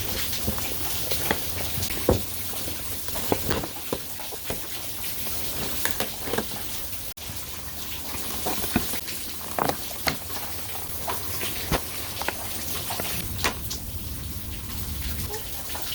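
Steady rain falling, with many irregular sharp taps of drops striking nearby surfaces.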